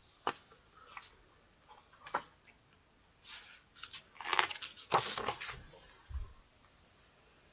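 A page of a picture book being handled and turned: a few soft clicks and taps, then crisp paper rustling and crinkling about three to five seconds in.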